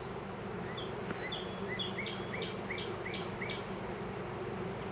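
Honey bee swarm in flight, a steady buzzing hum of thousands of bees in the air. A series of about eight short chirps repeats over it for the first few seconds.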